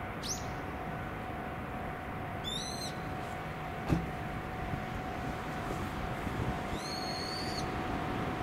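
A bird gives three short, high, harsh calls a few seconds apart over a steady low outdoor rumble and a faint steady hum. A single sharp knock sounds about four seconds in.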